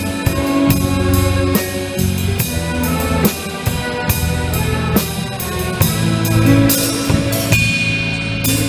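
Live band music with no singing: a drum kit keeps a steady beat with cymbal strokes under bass and sustained melody notes.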